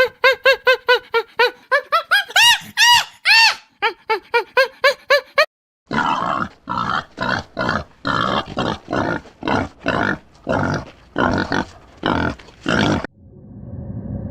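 An animal calling rapidly: a quick string of short pitched calls, each rising and falling, then, after a short pause, a run of harsher, noisy grunting calls about two a second that stops abruptly.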